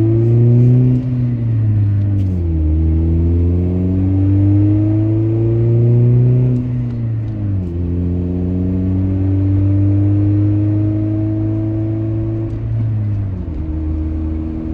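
Ford Focus ZX3's four-cylinder engine heard from inside the car, pulling through the gears under gentle acceleration: the engine pitch climbs, then drops at each upshift, about a second, six and a half seconds and thirteen seconds in. The freshly swapped engine runs smoothly and sounds pretty good.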